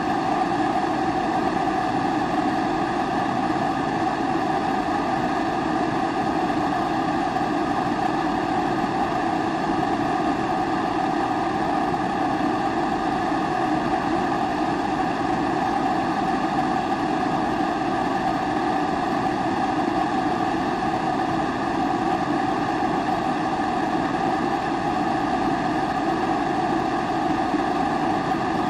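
Pressurised kerosene (primus-type) stove burner running at full flame: a steady, unchanging rushing sound.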